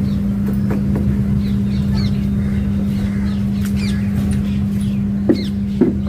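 Birds chirping over a steady low mechanical hum, with a couple of sharp clicks near the end.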